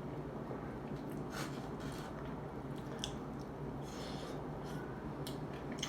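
Close-miked chewing: a person eating, with scattered short wet mouth clicks and smacks over a steady low hum.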